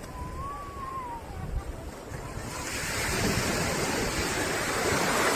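Ocean surf: a wave breaks and washes in from about two and a half seconds in, growing louder, over wind rumbling on the microphone. A short whistle-like tone rises and falls near the start.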